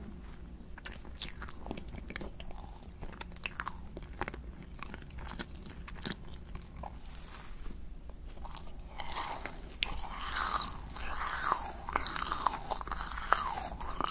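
Close-miked biting and chewing: a soft macaron chewed with scattered small clicks, then louder, denser crunching of a white snowman-shaped sweet from about nine seconds in.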